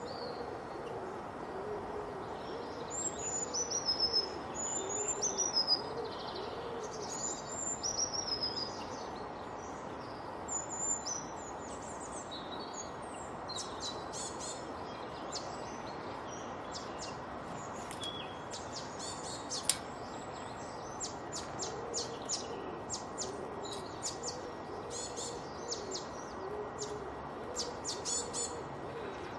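Several birds singing together. For the first nine seconds a bird repeats a short, high, descending whistled phrase. After that come many quick high chirps, while low hooting notes repeat underneath, all over a steady background hiss.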